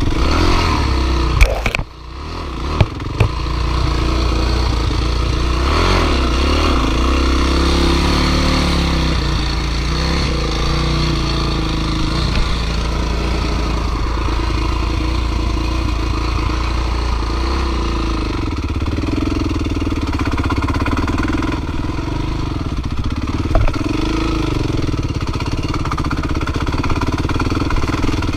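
Dirt bike engine running, its revs rising and falling. About two seconds in the engine sound dips briefly, with a few sharp knocks.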